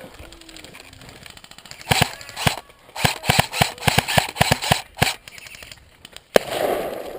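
Airsoft rifle firing: two single shots, then a quick run of about a dozen shots at roughly five or six a second. Near the end comes one more sharp crack followed by a brief rustling noise.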